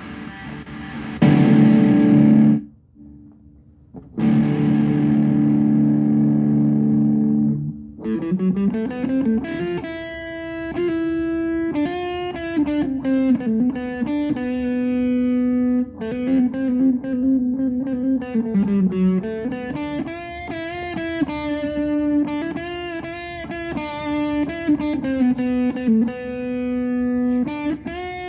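Donner DMT-100 electric guitar being played: two loud strummed chords left ringing over the first eight seconds, with a brief drop between them, then single-note melodic lines with several bent notes.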